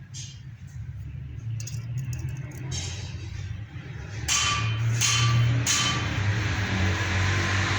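Manual metal lathe running with a steady low hum. About halfway through, the cutting tool bites into the spinning stainless steel plate in three short scrapes, then cuts continuously with a rising hiss.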